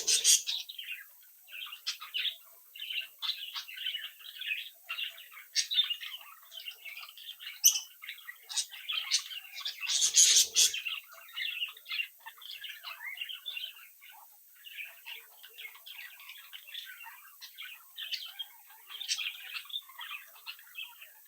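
A flock of budgerigars chattering and warbling in a continuous stream of short, quick chirps. There is a louder outburst right at the start and another around ten seconds in.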